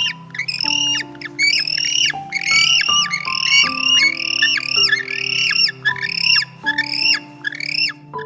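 A bird calling over and over in short, high squawks, about two a second, each rising then falling in pitch, over soft piano background music.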